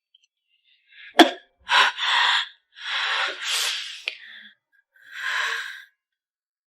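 A sharp click, then a girl's loud, breathy gasping sobs in three long bursts, each about a second long.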